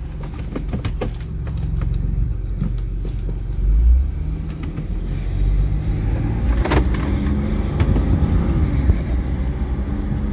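BMW 318i's engine running as the car drives off slowly, heard from inside the cabin as a low hum that grows a little louder over the first couple of seconds. A few sharp clicks and knocks sound over it.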